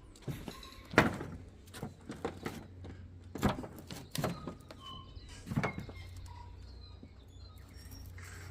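A handful of irregular knocks and thunks, the loudest about a second in, over a low steady hum, with short bird-like chirps between them.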